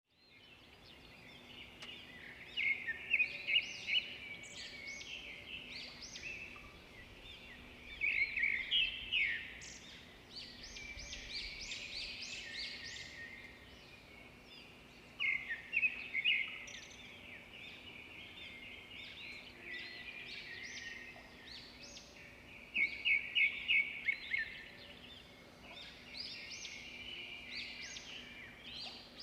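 Birds chirping and calling, with bursts of rapid high trills every several seconds over a faint steady hum.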